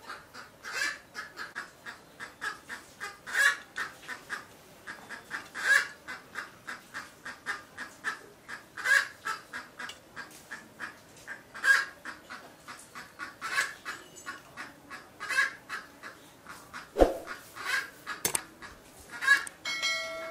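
Loud open-mouthed chewing and lip-smacking: a steady run of short wet clicks, several a second, with a stronger smack every couple of seconds. A single knock sounds near the end.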